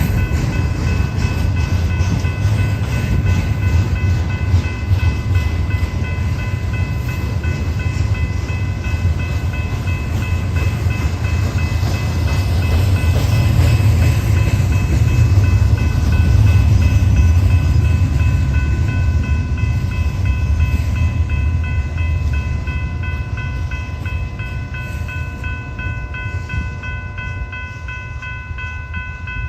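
Train passing on the rails: a heavy rumble of wheels with fine, regular clatter, loudest about halfway through and fading toward the end. Steady high ringing tones sound over it throughout.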